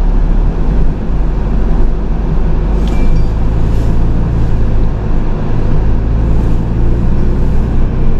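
A vehicle engine idling steadily, a low, even drone.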